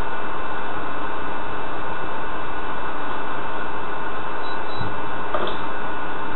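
Loud steady hiss with a constant hum, unchanging throughout.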